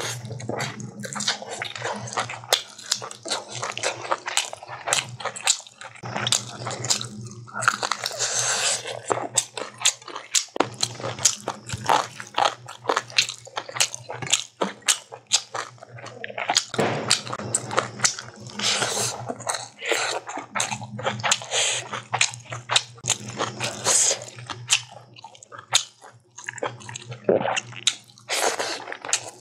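Close-miked eating: biting into a chicken drumstick, then chewing chicken and hand-mixed rice with wet mouth smacks and crunching bites. A steady low hum sits underneath.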